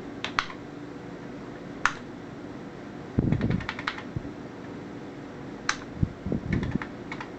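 Keys clicking on the HP-85's built-in keyboard: scattered single presses and a quick run of several about halfway through, over a steady low hum. A couple of dull low thumps come about three seconds in and again around six seconds.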